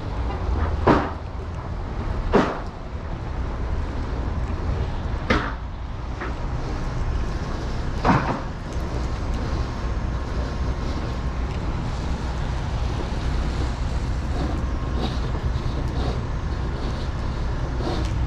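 Steady low rumble of outdoor street noise, with four sharp knocks spread over the first eight seconds.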